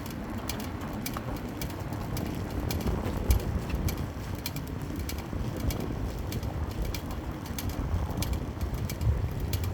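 Light, sharp ticking from an Apex VS-5RS, about three or four ticks a second at an uneven pace, over a steady low rumble.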